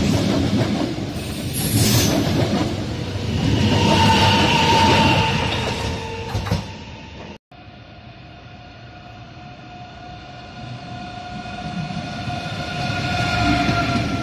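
A double-deck Intercity train rolling past close by, its wheels squealing with high steady tones about halfway through. After a sudden cut, an ICE high-speed train approaches with a steady whine and rolling noise that grow louder as it passes.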